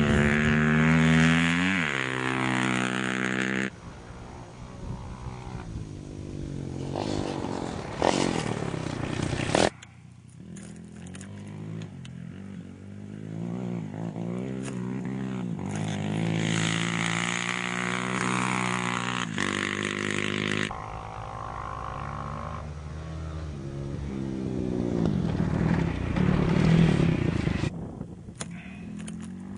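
Rally motorcycles and quads racing past on a stage, their engines revving hard, with the pitch climbing and dropping through the gears in several separate passes. The sound breaks off abruptly a few times between passes.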